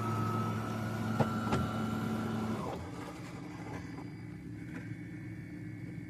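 Automatic espresso machine running with a steady mechanical hum, two sharp clicks a little over a second in, then the hum cuts off about two and a half seconds in.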